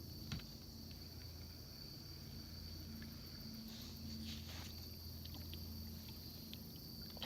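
Quiet pond ambience: a steady high-pitched insect drone, with a few faint clicks and soft swishes.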